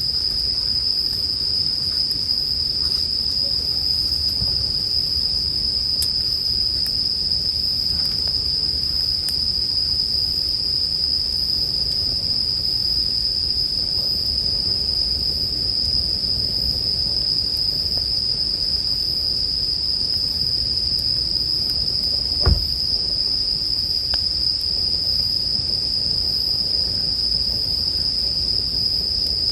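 Japanese bell crickets (suzumushi) singing in a continuous high-pitched trill, over the low crackle of a campfire. One sharp pop from the fire stands out about three quarters of the way through.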